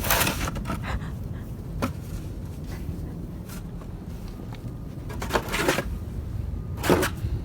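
Crunching and scraping in deep snow in a few short bursts, over a low steady rumble.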